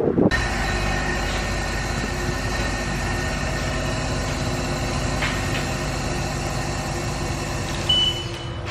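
Car wash pressure-washer pump running steadily with a hiss of spray, cutting in abruptly just after the start and easing off slightly near the end.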